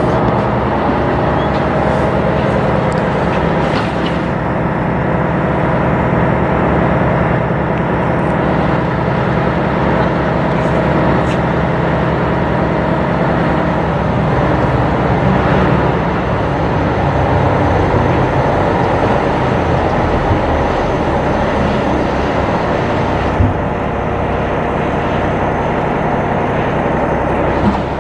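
Ship's diesel engine running steadily with a loud, continuous drone, and a couple of short knocks near the end.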